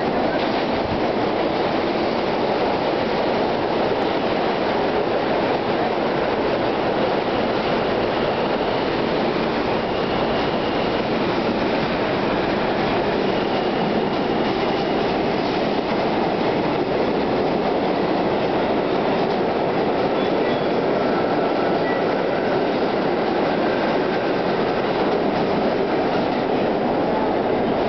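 New York City subway train running, a steady loud rumble and rattle of the moving train with faint high wheel squeals now and then.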